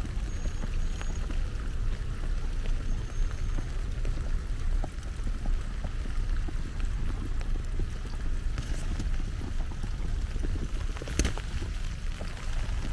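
Wind buffeting the microphone in a snowstorm, a steady low rumble, with a constant patter of small irregular ticks over it. There is one sharper crack about eleven seconds in.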